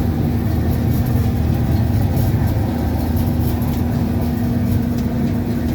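Whirlpool clothes dryer running steadily, its motor humming and its drum turning on a newly replaced belt: the machine is working properly again.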